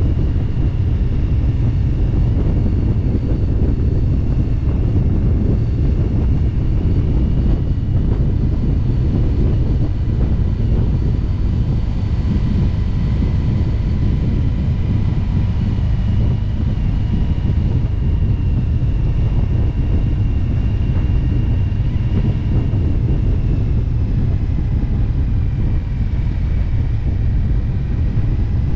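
Motorcycle cruising at steady road speed: a continuous low engine rumble mixed with wind buffeting the microphone, and faint, slowly shifting whine tones above it.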